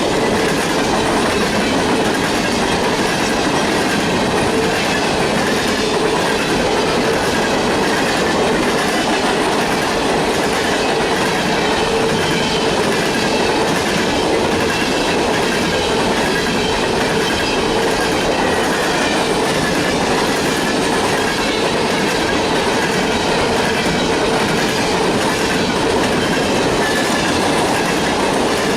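Freight train of hopper cars rolling past, a steady loud rumble of steel wheels on rail with a rhythmic clacking over rail joints and a steady whine from the wheels.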